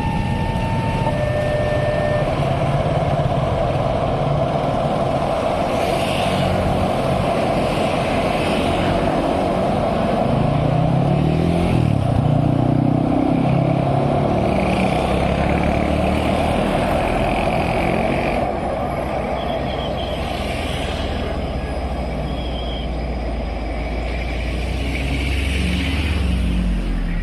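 Road traffic passing: a mix of engines and tyre noise, with a heavy vehicle's engine revving up and down around the middle and a few short high beeps a little past two-thirds of the way through.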